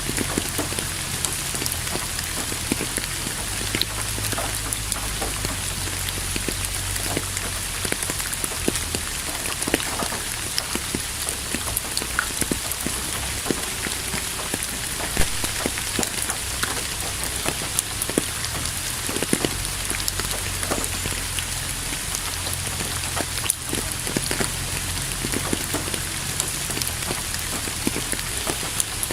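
Steady rain falling, with many individual drops ticking sharply on a surface over a continuous hiss and a low rumble underneath.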